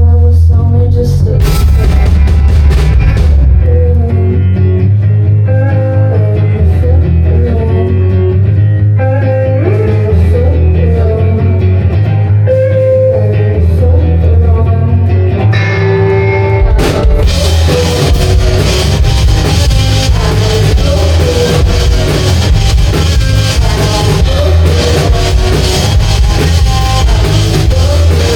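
Rock band playing: a guitar picks out a melodic line over heavy bass and lighter drums. About 17 seconds in, the full band comes in with driving drums and cymbals.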